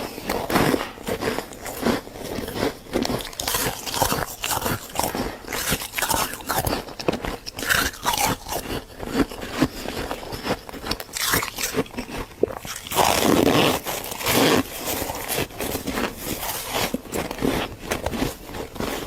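Squeaky freezer frost being bitten and chewed close to the microphone: a dense, irregular run of crunches, with a louder stretch of crunching about thirteen seconds in.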